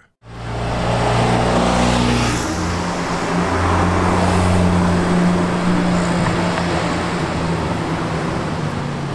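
Ferrari 458 Speciale's V8 engine running at low revs as the car drives slowly past and away, a steady low engine note that shifts slightly lower about two and a half seconds in and eases off a little toward the end.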